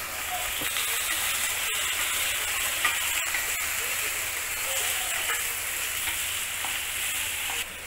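Par-boiled cluster beans sizzling in hot oil in a kadai as they are stirred with a wooden spatula: a steady frying hiss with faint scrapes, which drops off sharply near the end.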